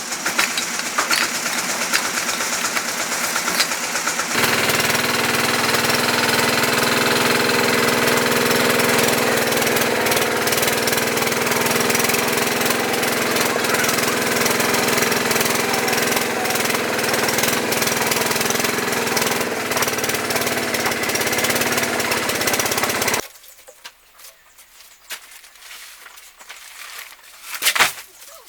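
A small engine running loudly and steadily, rattling fast for the first few seconds, then settling into an even drone. About 23 seconds in it cuts off abruptly, leaving quieter outdoor sound and one sharp knock near the end.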